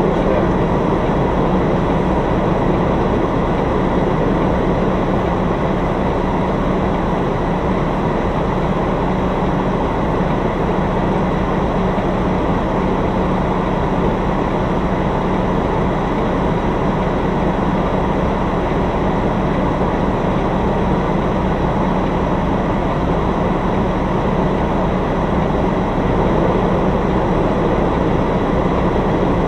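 Semi-truck's diesel engine running steadily, a continuous rumble with a constant low hum and no change in pitch.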